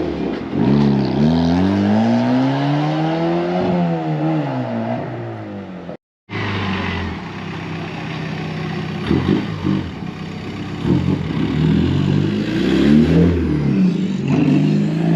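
Modified car's engine revving. Its pitch climbs slowly and falls back over the first few seconds, then after a brief gap about six seconds in comes a run of shorter, quicker revs.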